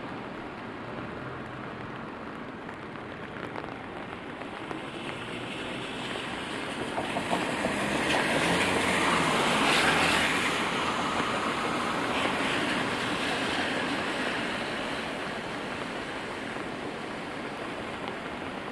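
Steady rain, with a vehicle driving past on the wet road: its tyre hiss swells to a peak about halfway through and fades away.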